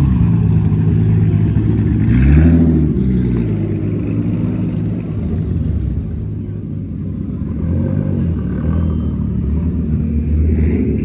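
Car engine running at low revs, with a short rise in revs about two seconds in before it settles back.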